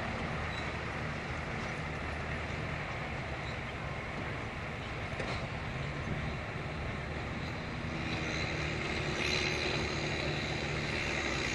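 Heavy vehicle engine running steadily at low revs, well below full power. About eight seconds in, a higher hiss and a second steady tone join it.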